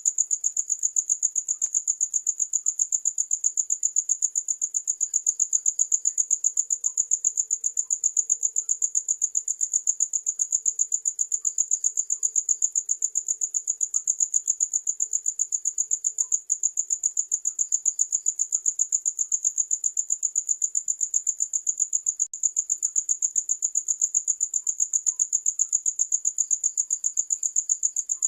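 Cricket chirping steadily: a high, even pulsing song, several chirps a second, without a break.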